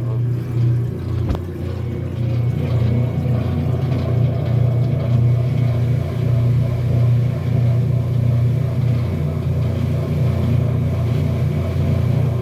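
Kenmore washing machine running with a steady low hum that sounds a little like a dryer, growing slightly louder about two seconds in.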